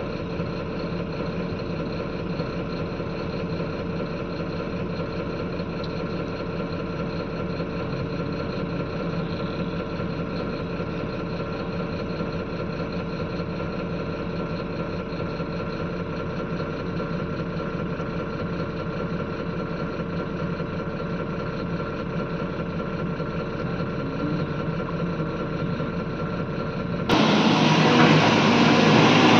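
Hydraulic excavator's diesel engine running steadily. Near the end the sound cuts suddenly to a louder, harsher rumble and clatter.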